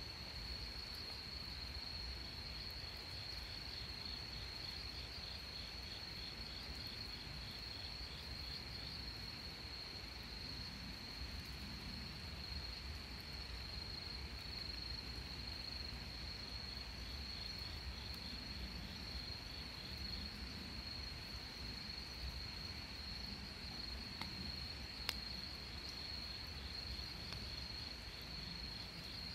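Insects trilling steadily, with a second insect's rapid pulsed chirping coming and going. A single sharp click sounds about 25 seconds in.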